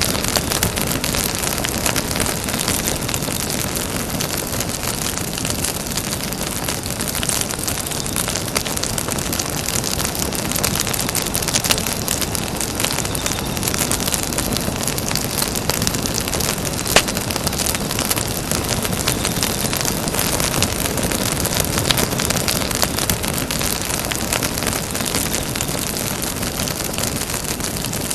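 Campfire burning, with dense, continuous crackling over a steady hiss and one sharper pop about seventeen seconds in.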